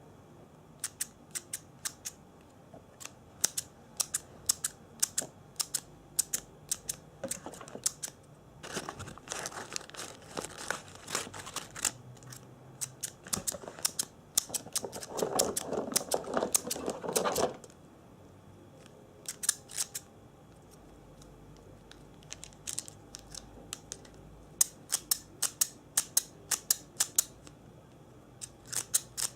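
Objects handled close to the microphone: a run of sharp, separate clicks, with a busier rustling, crinkling stretch in the middle.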